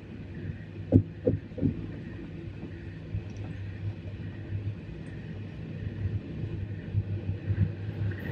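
Passenger train running on the rails, heard from inside the carriage: a steady low rumble, with three short thumps a little after a second in.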